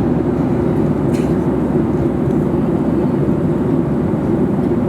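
Steady cabin noise of an airliner in flight: a low, even rush of engine and airflow noise.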